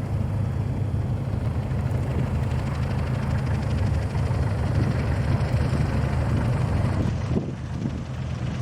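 Light propeller aircraft engine running steadily as a low drone after landing, dipping briefly near the end.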